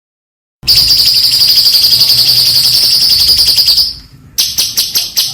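A songbird's rapid, high trill held for about three seconds, starting half a second in, followed by a quick run of sharp, loud chirps.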